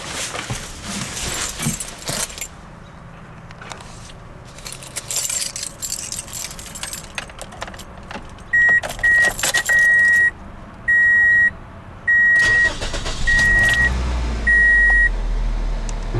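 Car keys jingling, then a 2003 Toyota Corolla's electronic warning chime beeping on and off in a steady high tone. Near the end a low engine rumble comes in as the engine starts and runs.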